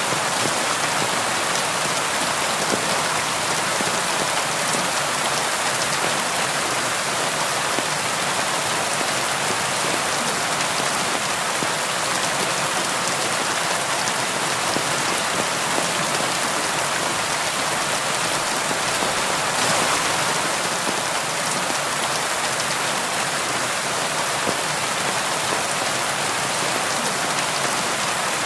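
Steady rain falling against a window, an even hiss of drops that swells slightly about twenty seconds in.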